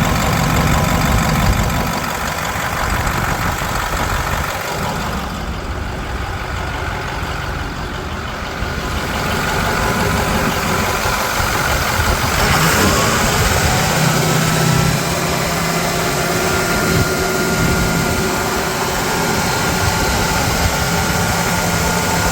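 2011 International MaxxForce 7 6.4-litre V8 diesel engine running steadily at idle, its note shifting briefly about halfway through.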